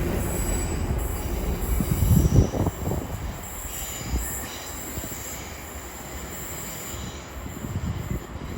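A pair of class 185 diesel multiple units rolling past and moving away, their wheels squealing thinly on the rails over a low rumble. A few knocks come about two seconds in, and the sound fades steadily.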